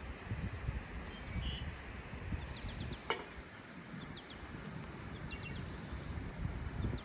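Outdoor rural ambience: scattered faint bird chirps over a low, fluctuating rumble, with a single sharp click about three seconds in.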